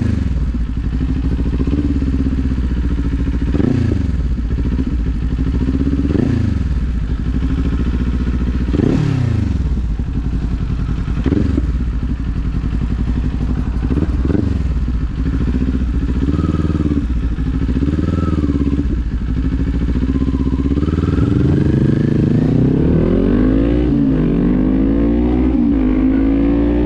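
Kawasaki Z400 parallel-twin engine running under way. Its pitch climbs and drops several times in the first half, holds steadier for a while, then rises again in long sweeps near the end.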